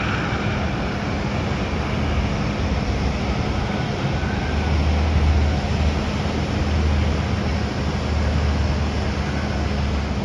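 Jet aircraft engines running at an airport: a steady rushing noise over a constant low hum, with a deep rumble swelling about four seconds in.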